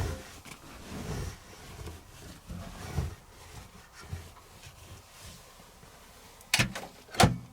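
Handling of an Electrolux Wascator W355H commercial washing machine: a few soft knocks, then two sharp clunks about half a second apart near the end.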